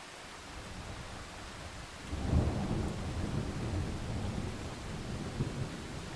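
Rolling thunder over steady rain: a low rumble builds during the first two seconds, then cracks loud a little over two seconds in and keeps rumbling.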